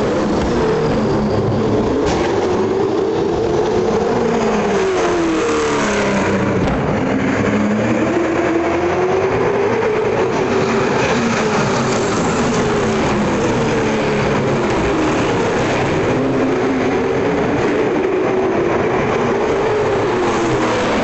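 V8 Supercar racing engines at full race pace, their pitch rising and falling again and again over a few seconds at a time as they accelerate and back off. Several engines overlap.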